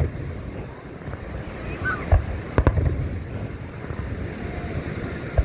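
Aerial fireworks going off: low booms and sharp bangs, one loud crack about halfway through and another at the very end.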